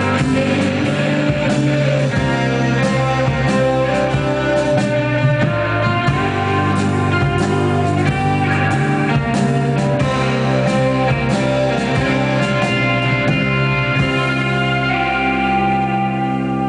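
Live rock band playing an instrumental stretch in a psychedelic rock vein, with guitar to the fore, steady and loud, easing off slightly near the end.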